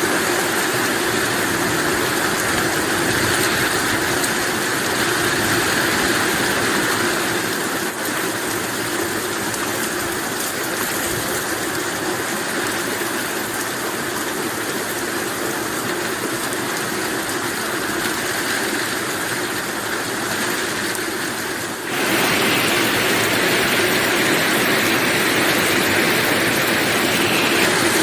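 Heavy rain falling steadily. About three quarters of the way through, the sound changes abruptly and becomes slightly louder.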